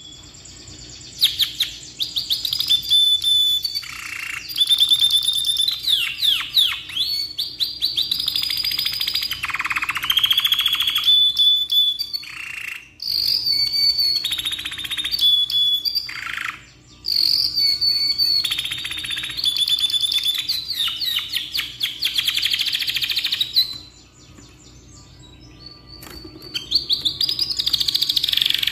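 Domestic canary singing long, varied song phrases of rapid trills and rolling runs, with a few short breaks and one longer pause about two thirds of the way through.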